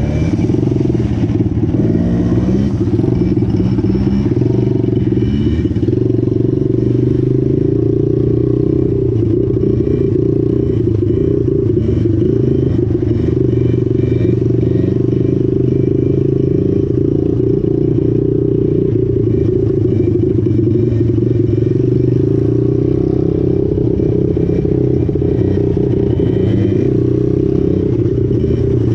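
Small mini-bike engine running at a fairly steady speed throughout, with only slight changes in pitch.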